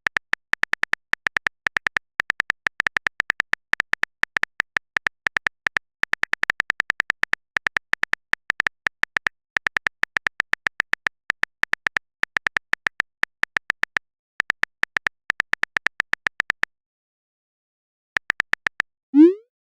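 Phone keyboard typing sound effect: quick, irregular key clicks with a couple of short pauses. Near the end comes a brief rising swoosh, the message-sent sound.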